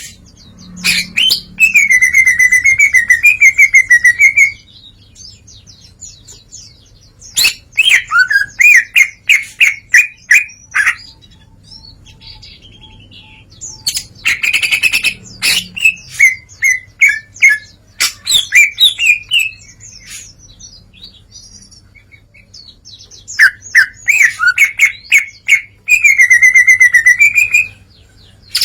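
Green leafbird (cucak ijo) singing loudly in several long bursts of fast, varied warbles, trills and whistles, with short pauses between them. The song runs through a string of different learned phrases.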